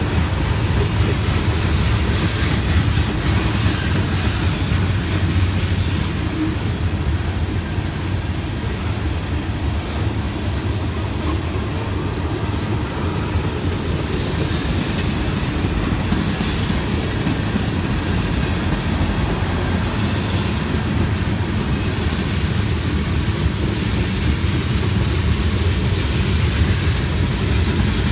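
A freight train of tank cars rolling past, with the steady, loud noise of steel wheels on the rails. A car passes on the road in front at the start, and another passes near the end.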